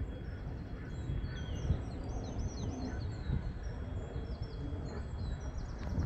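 Small birds singing in trees: short high chirps and quick trilled phrases, repeated throughout, over a steady low rumble of outdoor background noise.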